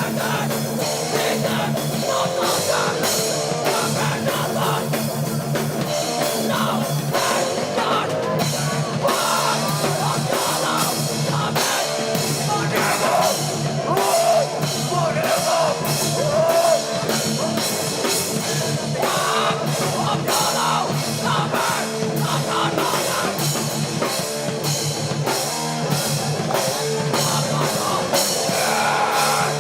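A hardcore band playing live, with loud distorted guitars, bass and drum kit on a steady driving beat, and some vocals.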